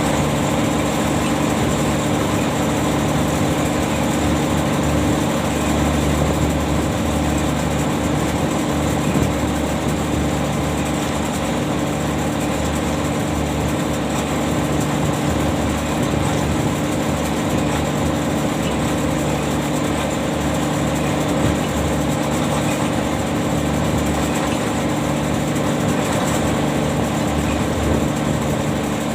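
Ship's engine-driven machinery running steadily: a constant mechanical hum with a few fixed tones, no change in speed.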